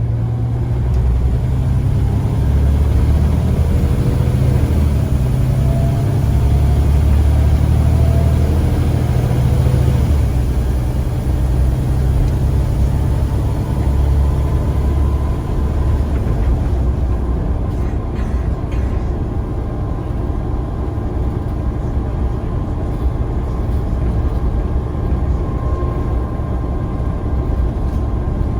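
Scania CN94UA single-deck bus's diesel engine pulling hard, with the low drone rising and shifting and a whine climbing in pitch over the first half. About halfway through it settles to a lower, steadier running sound.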